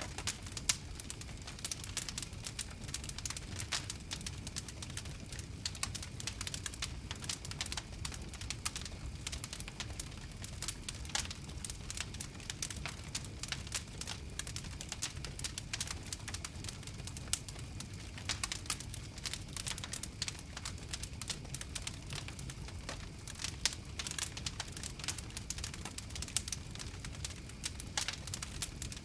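Wood fire crackling: many irregular sharp pops and snaps over a low steady noise.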